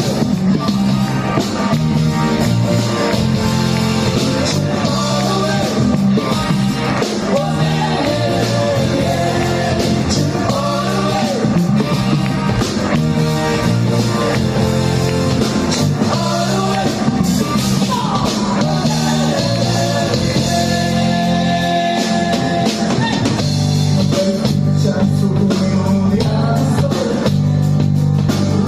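Rock band playing, with electric guitar, bass and drum kit under a sung lead vocal, loud and continuous.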